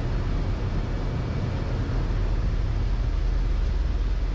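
Steady cockpit noise of a Boeing 747-400 in the initial climb just after takeoff: a deep, even rumble from its four engines at takeoff thrust and the air rushing past the flight deck.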